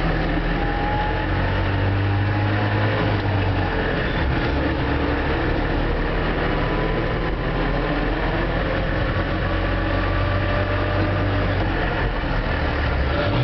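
Trabant engine running steadily as the car drives along, heard from inside the cabin together with road noise.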